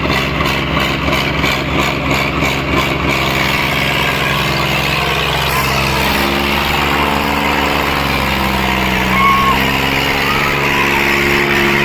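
Tractor diesel engine running. About three seconds in, a fast pulsing stops and the engine pitch shifts. A short high tone sounds about nine seconds in.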